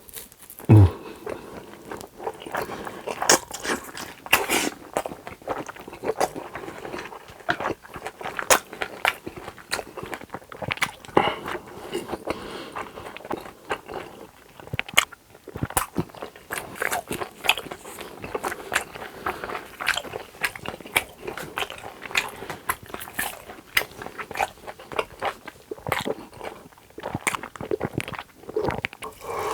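Close-miked eating: chewing and biting with many irregular wet clicks and small crunches. About a second in there is a short low sound that drops in pitch.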